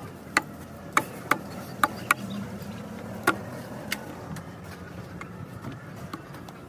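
Scattered sharp clicks and knocks of metal tools or engine parts being handled, about seven in the first four seconds, over a steady low hum.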